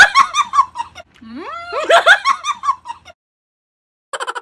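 A high-pitched giggling laugh that rises and then breaks into quick falling pulses, heard twice in a row in the same form. After about a second of dead silence, a rapid run of chattering pulses starts near the end.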